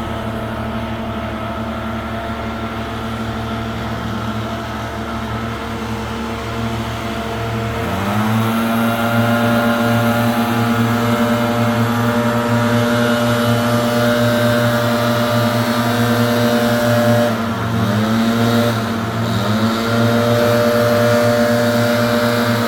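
Leaf blower engine running at part throttle, then revving up about a third of the way in and holding a steady high speed, with two brief dips in throttle later on.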